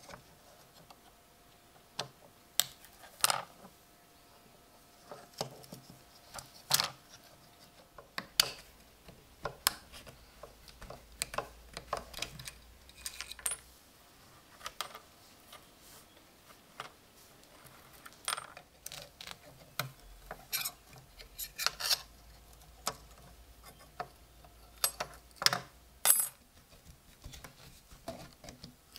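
Light metallic clinks and taps at irregular intervals, with a few louder knocks among them: small steel parts of an old folding pocket knife being handled and struck.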